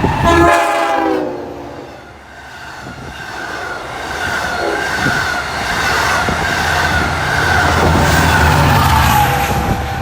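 Train horn sounding as a train passes, its chord dropping in pitch and cutting off about a second and a half in. Then a train's rumble and a steady whine build up again and grow louder toward the end.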